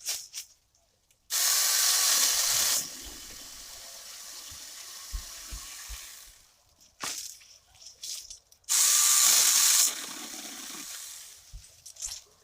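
Battery-powered mini chainsaw run in two short bursts, each starting suddenly at full speed and dropping to a lower steady noise, with a few low knocks between them.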